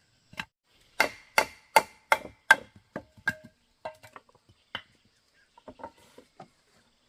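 Hand tool striking wood in a series of sharp blows, two to three a second with a short ring after each, weakening after about three seconds into a few light knocks.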